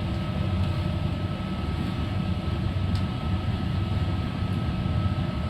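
Interior running noise of a diesel multiple unit travelling at speed: a steady low rumble with a thin, steady whine above it.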